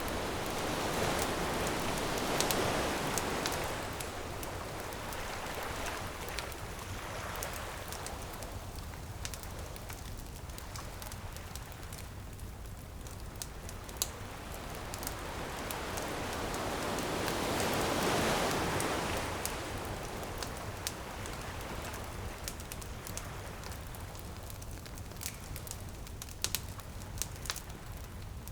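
Ocean waves breaking on a beach, swelling twice, about two seconds in and again around eighteen seconds, over a steady wash of surf, with the sharp pops and crackles of a wood bonfire scattered throughout.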